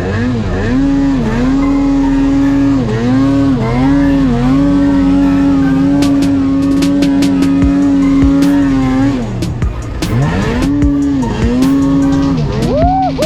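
Two-stroke snowmobile engine running at high revs. The pitch dips and climbs several times as the throttle is eased and reopened, then holds steady at full throttle for several seconds before dropping off and climbing again near the end.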